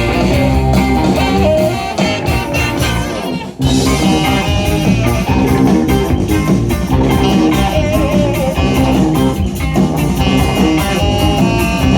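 Rock band playing an instrumental passage with guitar and drum kit, breaking off for a moment about three and a half seconds in before coming back in together.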